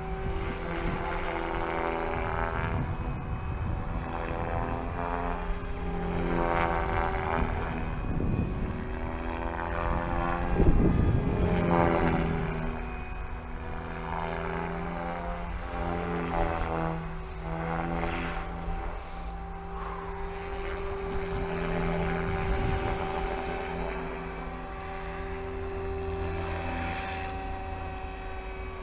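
Electric SAB Goblin 500 RC helicopter flying 3D manoeuvres: the motor and rotor hum in steady tones that shift in pitch as the load changes, with a swell of blade whoosh about eleven seconds in.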